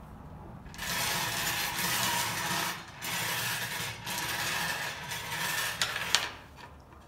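Numbered draw balls rattling as they are mixed in their container before the next one is pulled, in three spells of shaking with a few sharp clacks near the end.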